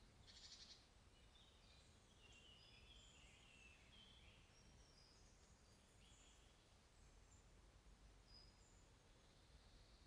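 Faint woodland birdsong: scattered high chirps and short song phrases from several birds over a low background rumble, with a brief fast-pulsed call about half a second in as the loudest sound.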